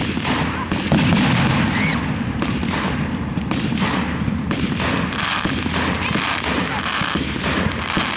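Fireworks display: shells bursting and crackling in rapid, overlapping succession, with a short rising whistle about two seconds in.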